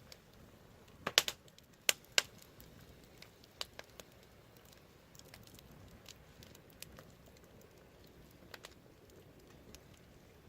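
Wood fire crackling: a quick run of sharp pops a second or two in, then scattered fainter crackles over a low, steady hiss.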